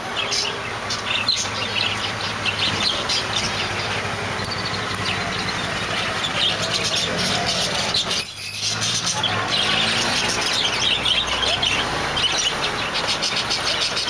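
Birds chirping and calling over and over, over a steady low rumble, with a brief lull about eight seconds in.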